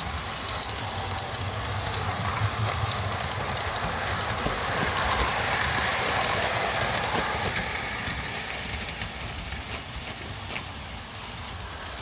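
O scale model train rolling along the track, a steady rumble with small clicks from the wheels. It grows louder to a peak about halfway through and then fades as the train passes by.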